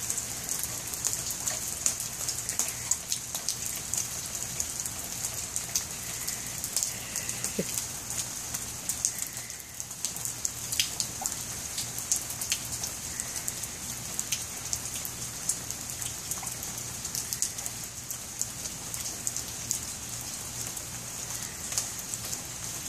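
Rain falling steadily: a constant hiss dense with sharp ticks of individual drops striking nearby surfaces.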